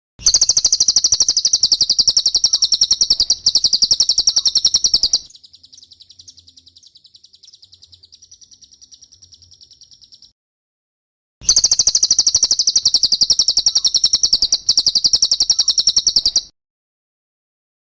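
Recorded cililin song: a loud, very fast, high-pitched trilling chatter in two bursts of about five seconds each. Between them comes a quieter trill, then a short pause.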